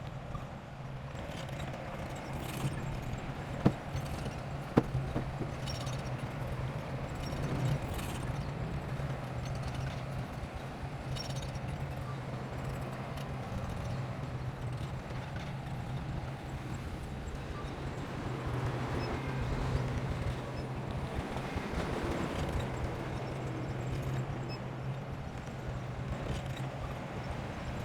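Bulldozer's diesel engine running steadily, with scattered clanks and two sharp metallic knocks about four and five seconds in.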